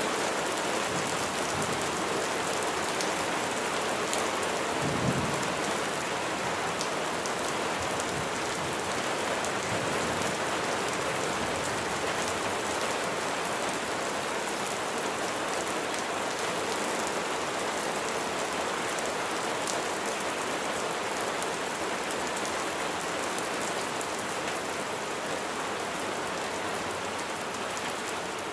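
Steady rain falling, with individual drops ticking sharply on a surface. There is a brief low thump about five seconds in.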